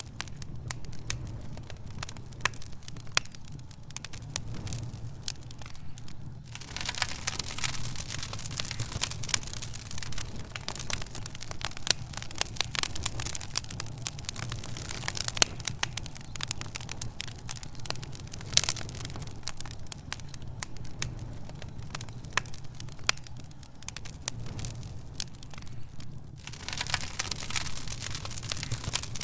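Wood fire crackling in a fireplace: frequent irregular sharp snaps and pops over a steady low rumble and hiss.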